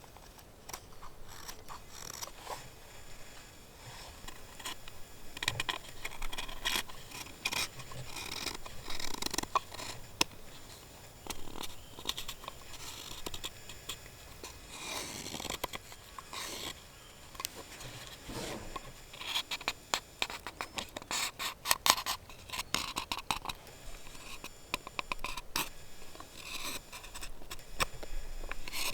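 Irregular scraping and scratching strokes mixed with light clicks and knocks, coming in clusters with short pauses between them.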